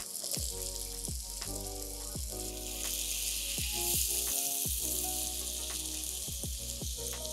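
Marinated boneless chicken pieces sizzling in hot oil with softened onion and tomato in a pan as they are added and stirred with a spatula. The sizzle grows louder about three seconds in.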